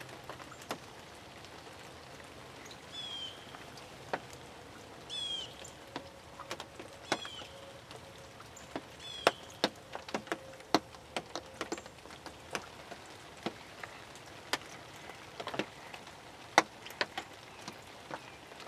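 Raindrops hitting a fabric ground blind in irregular sharp taps, growing more frequent in the second half. A bird gives four short high calls about two seconds apart in the first half.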